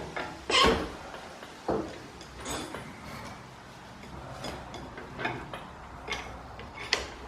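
Scattered knocks and clicks of tools and parts being handled, with a louder knock about half a second in and lighter ticks after it.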